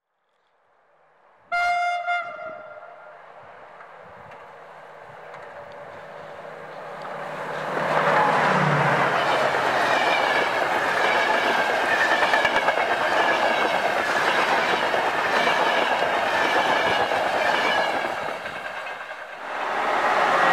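A train horn sounds a short blast about a second and a half in. Then a locomotive-hauled passenger train approaches and passes at speed: a steady, loud rush of wheels on rails and wind with wheel clatter, which drops away near the end.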